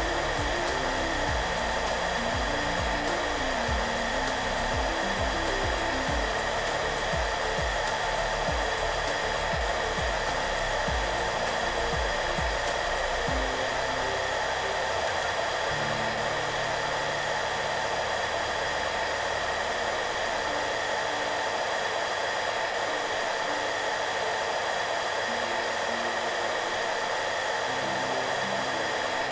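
Hair dryer running steadily, a constant airy rush with a fixed motor whine in it, mixed with soft background music. The music's low notes carry a gentle beat for about the first half, which then drops away.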